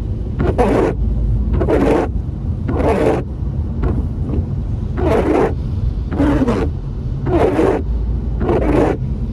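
Car windscreen wipers sweeping across wet glass, scraping noisily on each pass, about once a second. Steady road and engine rumble from inside the cabin runs underneath.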